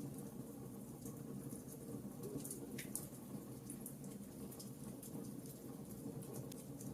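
Wood logs burning in a fireplace: a steady low rumble of the fire with small irregular crackles and pops, one sharper pop about three seconds in.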